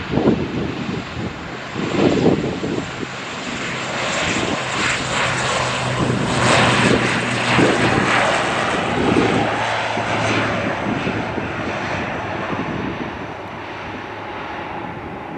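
An airliner passing close by, its engine noise swelling to a peak about halfway through and then fading away. A couple of wind thumps hit the microphone near the start.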